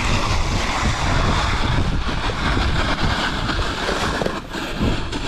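Strong blizzard wind buffeting the microphone: a loud, gusty rush and rumble, with a brief lull a little after four seconds.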